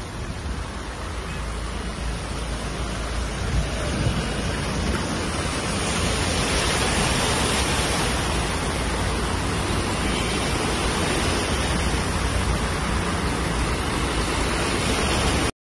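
Steady rushing noise of heavy rain, with cars wading through a flooded street. It grows louder over the first few seconds, then cuts off suddenly at the very end.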